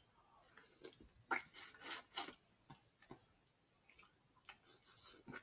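Close-up eating sounds of snow crab: a quick run of short wet bites and chews on crab-leg meat about a second and a half in, then a few fainter ones.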